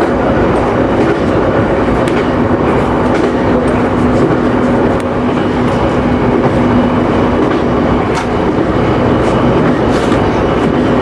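JR Nikko Line electric local train running between stations, heard from inside the front car: a steady rolling noise with a low hum and scattered clicks of the wheels over the rails.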